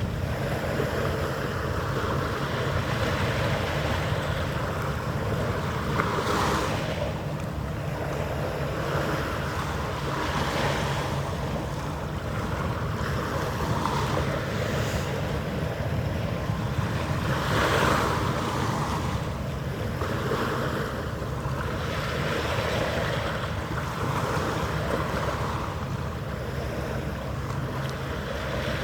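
Wind rumbling on the microphone over harbour water washing and lapping, swelling every few seconds, with a faint steady hum underneath.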